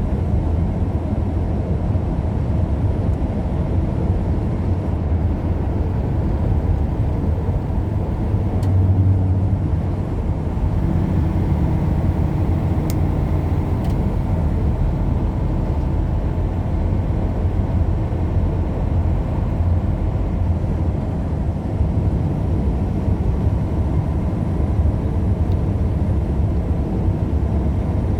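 Steady low rumble of a vehicle travelling at road speed, engine and tyre noise with no breaks.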